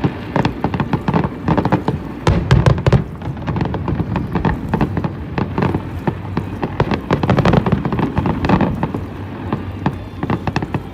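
Fireworks display: dense crackling from many small bursts, with deep booms about two seconds in.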